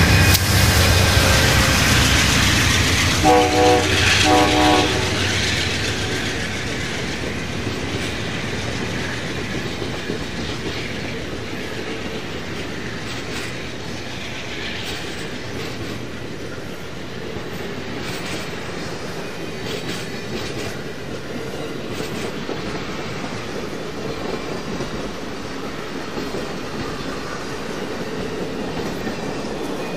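Train passing on the main line: loud rumble and wheel clatter that fades after a few seconds, with two short horn blasts about three to four seconds in. Fainter clickety-clack of wheels over rail joints continues after that.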